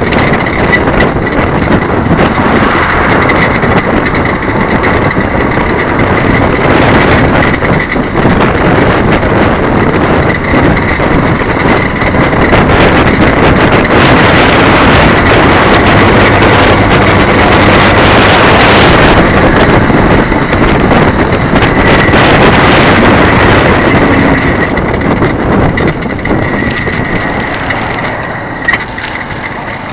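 Moving-vehicle noise heard from an electric recumbent bicycle on the move: wind rushing over the microphone and road noise, with a steady high whine. It eases a little over the last few seconds.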